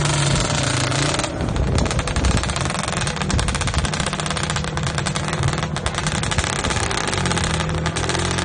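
Drag-racing motorcycle engines running loudly, with rapid, evenly spaced firing pulses.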